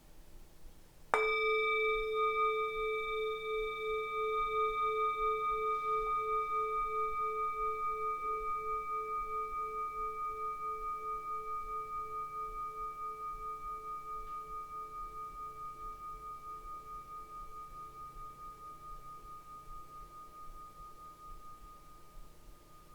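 A singing bowl struck once about a second in, then ringing out in a long, slowly fading tone with a pulsing wobble, still faintly sounding near the end.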